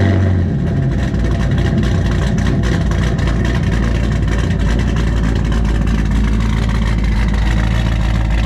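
Car engine running steadily at idle, a loud, low, even sound.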